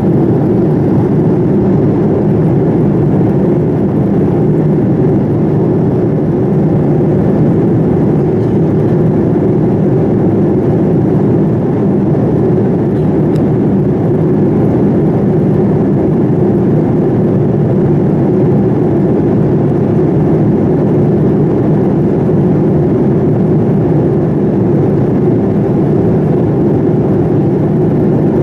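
Steady cabin noise inside a Boeing 787-9 airliner: an even drone of engine and airflow that does not rise or fall.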